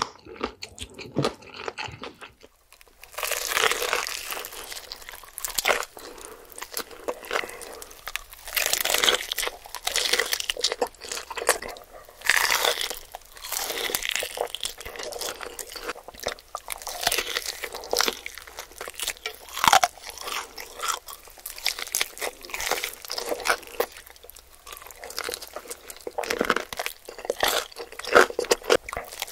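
Close-miked eating of sauce-glazed fried chicken: crunching bites into the crispy coating and chewing, with many small crackles. The first few seconds are quieter, then the crunching becomes dense and loud.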